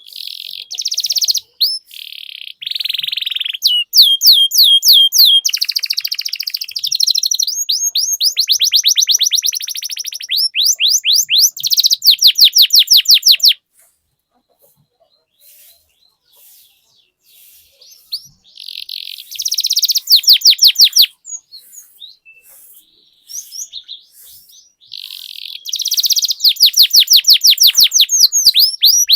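Domestic canary singing a long rolling song: rapid trills of quick repeated high notes, switching from one trill to the next. It breaks off about 14 seconds in for a few seconds of scattered, softer notes, then rolls again.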